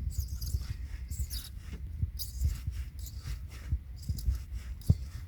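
Hand work in a stripped engine-mount bolt hole: short metal scrapes and clicks of a thread-repair tool or bolt being worked in by hand, over low thumps of handling. A sharp click comes near the end.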